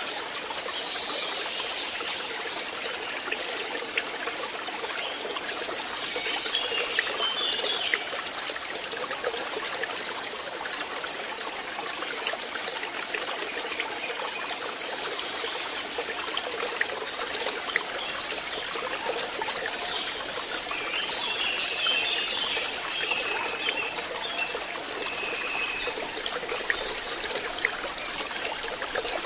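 Water trickling and splashing steadily into a fish pond, with brief chirping about six seconds in and again around twenty seconds.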